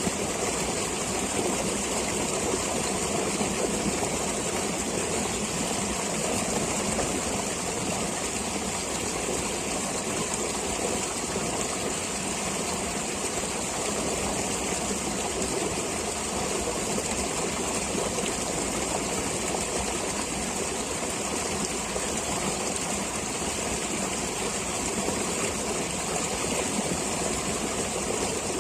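A stream of flowing water rushing steadily, without a break.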